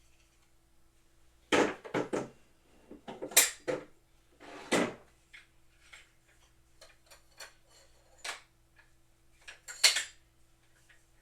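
Hard parts of boxing equipment knocking and clattering as they are handled and fitted together during assembly, with a few loud knocks and lighter ticks between them.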